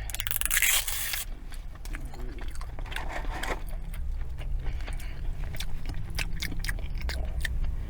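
Close-miked eating sounds: a brief rustle in the first second, then chewing with many small, wet mouth clicks as the barbecue sauce is tasted.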